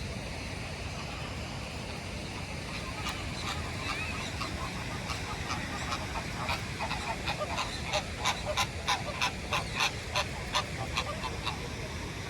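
Birds honking in a run of short goose-like calls. They start sparsely a few seconds in, then come quicker and louder at about three or four a second before tailing off near the end, over a steady low background rumble.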